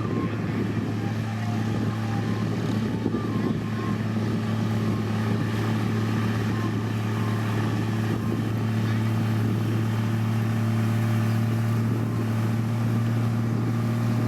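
Diesel engine of heavy road-construction machinery, such as a motor grader or road roller, running steadily at constant speed, with a deep even hum.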